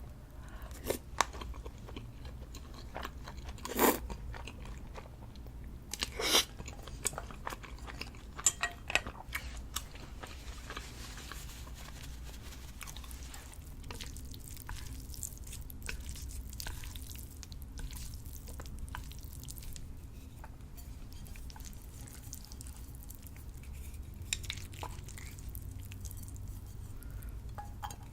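A person chewing and biting food. A few sharp clicks and crunches fall in the first ten seconds, then softer chewing follows.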